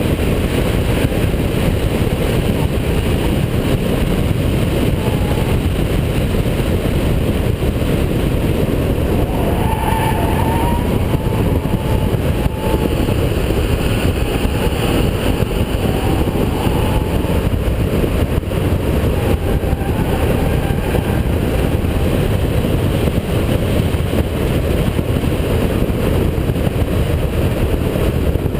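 Holden VP Commodore's 3.8-litre V6 engine driven hard at speed, a loud steady drone of engine and road noise.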